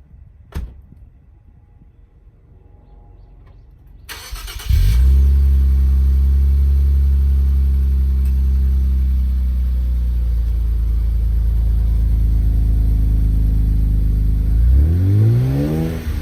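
Nissan Skyline 400R's twin-turbo V6 with a Kakimoto aftermarket exhaust being started: a click, then about four seconds in the starter cranks and the engine catches. It idles steadily, settling a little lower after the start flare, then gets one quick rev near the end.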